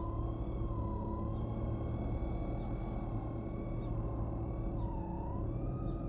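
A motor running with a steady low hum and a whine that dips briefly in pitch twice, about a second in and again near the end.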